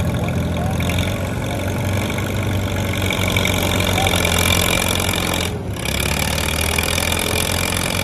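Farmall Super M tractor engine running under load, pulling the weight sled, with a brief dip about five and a half seconds in.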